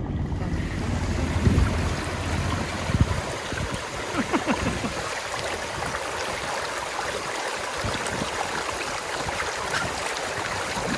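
Steady rushing water, with a low engine hum and a few knocks in the first three seconds that then fade out.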